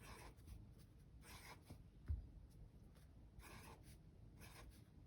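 Pen drawing small circles on paper: faint, short scratchy strokes at irregular intervals, with one soft low thump about two seconds in.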